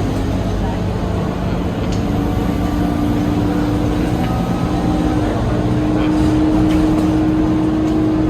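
Scania K230UB city bus running on the road, its engine drone and road noise heard from inside the cabin, with one tone rising slightly in pitch partway through as the bus picks up speed.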